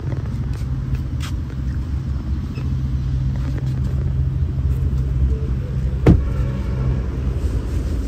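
Steady low drone of an idling vehicle engine, with a few light handling knocks and one sharper click about six seconds in.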